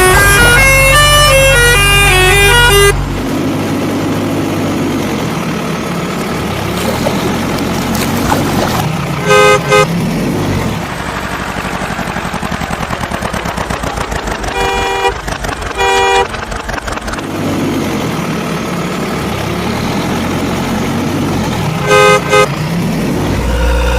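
Music for the first few seconds, then a running vehicle engine sound with a horn beeping in short pairs, three times.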